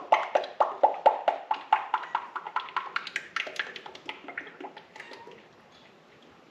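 Motor oil glugging out of a 5-quart plastic jug into the engine's oil filler, air gulping back into the jug about three times a second. The glugs fade and die away as the flow settles, about five seconds in.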